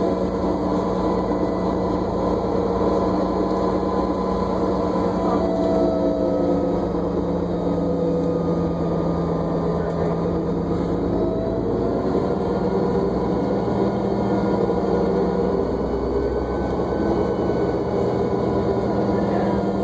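New Flyer D40LFR diesel transit bus heard from on board while it drives, with a steady low hum and a whine of several tones that drift slightly up and down in pitch as the bus changes speed.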